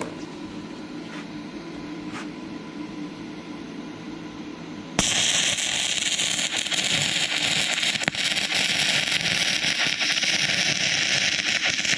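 Stick welding arc from a 6011 electrode on an inverter arc welder: it catches suddenly about five seconds in and then crackles and hisses steadily as a bead is run over rusty, painted metal.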